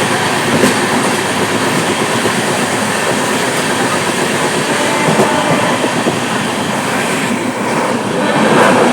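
Express train hauled by a WAP-7 electric locomotive, running fast after accelerating: a loud, steady rush of wheel and rail noise with some clickety-clack.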